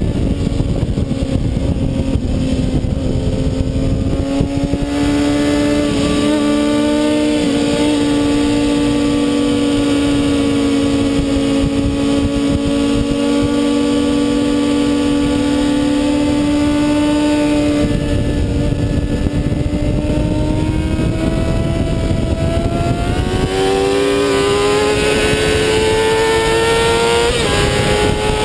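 Kawasaki ZX-6R inline-four sport-bike engine heard onboard at speed on a race track, holding a steady high pitch, easing off briefly partway through, then revving up again near the end. Heavy wind rush on the microphone runs under the engine.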